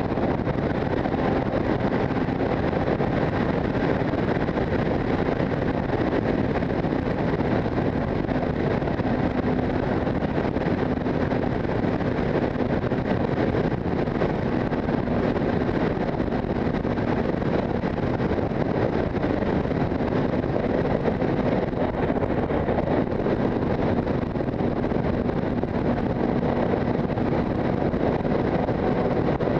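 Motorcycle cruising at a steady speed, heavy wind rushing over the microphone with a steady engine hum underneath.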